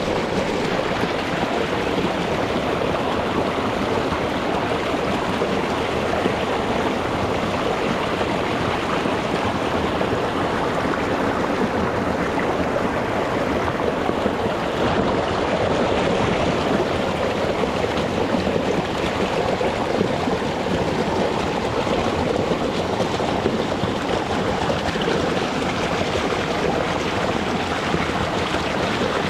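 Rocky mountain stream rushing and splashing over stones, a steady, even water noise.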